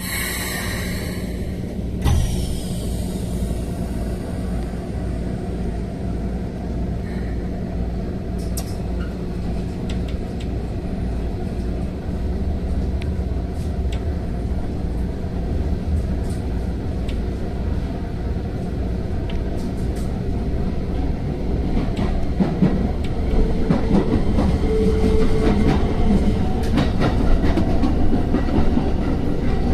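Keikyu electric train heard from aboard as it pulls away: a hiss and a single thud about two seconds in, then running noise of motors and wheels on rail, a steady rumble that grows louder as the train gathers speed, loudest near the end.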